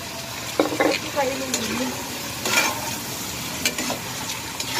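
Food sizzling as it is sautéed in a pot on the stove, with a utensil stirring and scraping against the pot every second or so.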